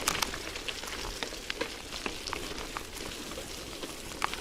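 Bicycle tyres rolling through wet sand after rain, a steady crackling hiss with many small irregular clicks and ticks from grit and water.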